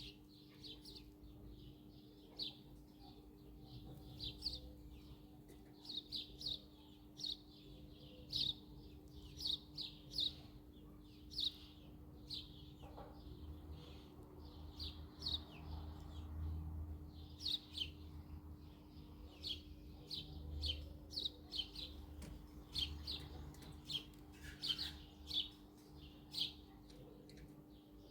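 Birds chirping: a steady run of short, high chirps, each sliding downward in pitch, one to three a second, with a steady low hum beneath.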